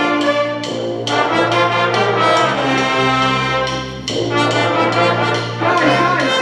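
Wind band with the brass section leading, playing loud held chords that change about a second in and again around four seconds.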